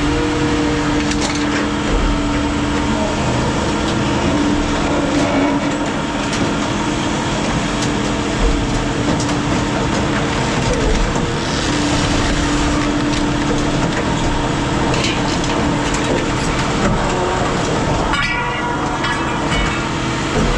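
Heavy scrap-yard machinery running with a steady hum while scrap metal is handled, with scattered clanks and knocks and a quick rattling run near the end.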